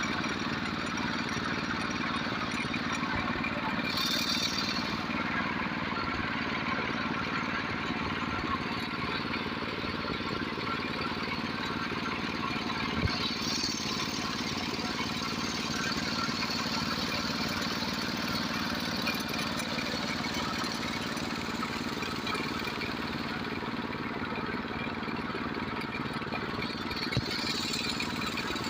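Tractor engine running steadily, with a single sharp knock about halfway through and another near the end.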